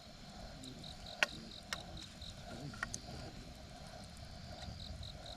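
Campfire crackling, with a sharp pop about a second in and a few smaller snaps after it. Crickets chirp in a steady pulse, about four chirps a second, coming back in near the end.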